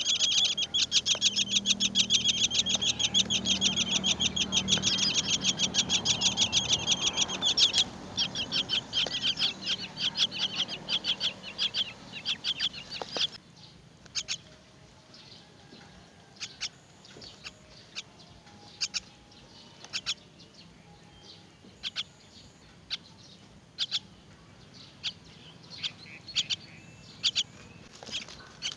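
Myna nestlings begging with fast, dense, high-pitched chirping, a sign of being fed. The calling is loud at first, thins out, then falls to scattered single chirps.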